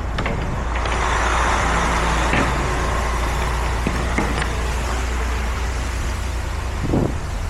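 Semi truck running: a steady low engine rumble with road and tyre hiss, the hiss swelling during the first few seconds.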